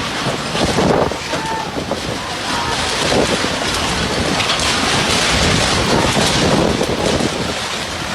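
Strong wind buffeting the microphone, a loud continuous rushing noise, typical of storm weather.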